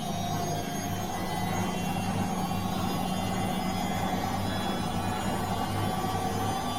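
Washing machine running, a steady motor hum with a faint whine over it.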